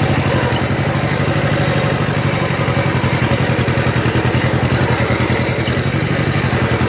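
Kubota L1500 compact tractor's small diesel engine running steadily in second gear, a fast, even pulsing throb.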